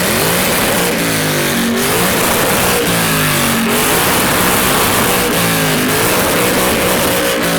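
Ford Mustang's 5.0-litre Coyote V8 revved hard over and over, the engine pitch climbing and dropping several times.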